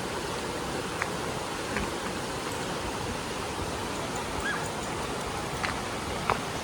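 Rushing stream water, a steady even hiss, with a few faint short ticks about a second in and near the end.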